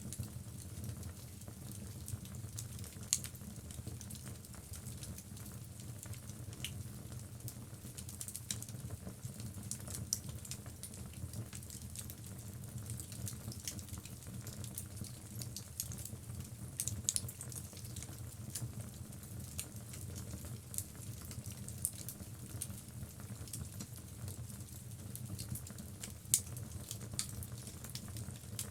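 Logs burning in a fireplace, crackling with irregular sharp pops over a low steady rumble of the flames; a few louder pops stand out, about three seconds in, midway and near the end.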